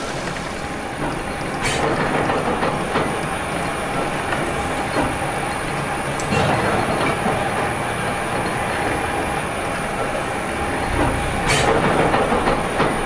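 Steam engine running: a steady clatter and hiss of machinery, with a sharper burst about every five seconds.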